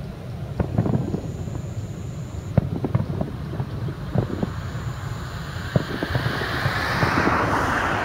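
Aerial fireworks shells bursting, heard from far off: a ragged series of bangs and thuds over a continuous rumble. Near the end a broad rushing, crackling noise swells up and rises.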